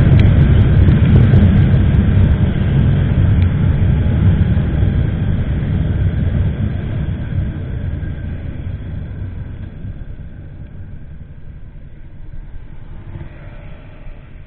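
Motorcycle on the move, picked up by an action camera: engine and wind rush rumbling steadily, gradually fading over the span.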